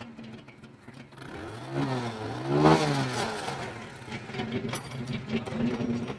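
Motorcycle engine idling, revved once about two seconds in and dropping back to a steady idle.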